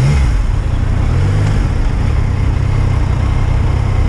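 Yamaha MT-09's 847 cc inline three-cylinder engine running at low revs in slow traffic, over wind and road noise. The engine note shifts briefly in the first second and a half, then holds steady.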